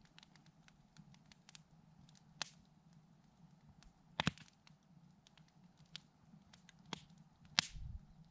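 Campfire crackling: scattered small ticks from the burning wood, with four sharper pops, the loudest near the end.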